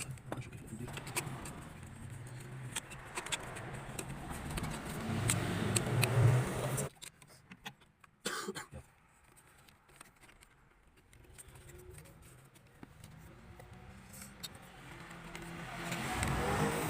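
Mercedes-Benz C203 engine running, with clicks and light metallic jangling over it. It cuts off abruptly about seven seconds in, and after that there are only faint handling sounds until a rise near the end.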